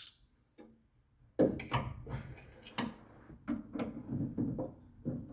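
Hand tools knocking and clicking against metal as a socket wrench is worked on a nut, with an irregular clatter starting about a second and a half in.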